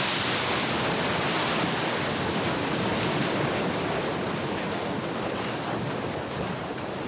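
Loud, steady rushing noise with no distinct strikes, easing off near the end.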